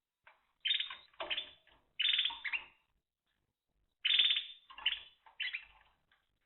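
Timbrado canary singing: short phrases of rapid trilled notes, separated by brief pauses, with a longer pause of about a second midway.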